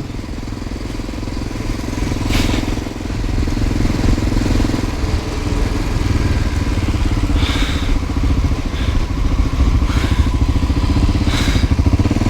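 1988 Honda NX650 Dominator's single-cylinder engine running steadily while under way, with a few brief knocks now and then.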